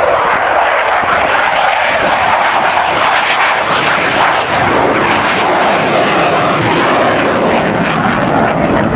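Fixed-wing aircraft engine noise from an airplane flying over, loud and steady, with a deeper rumble coming in about halfway through.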